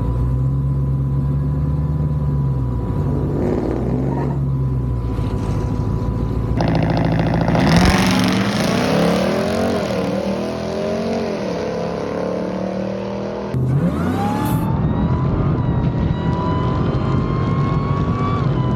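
Supercharged HEMI V8 pickup engines at a drag race. They idle with a low steady rumble, then rev and accelerate hard with the pitch climbing and dropping through gear changes. Later a rising whine climbs as a truck runs down the track.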